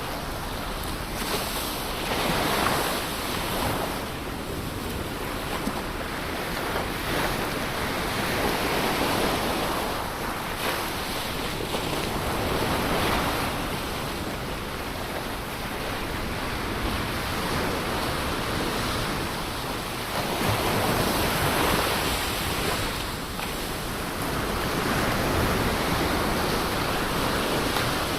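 Ocean surf: waves breaking and washing up the shore in a steady rush that swells and eases every several seconds.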